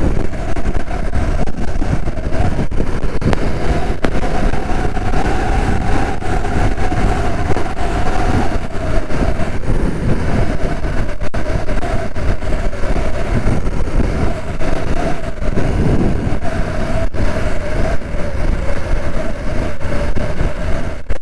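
BMW F900R parallel-twin engine running at a steady cruising speed while riding, under a constant rush of wind and road noise.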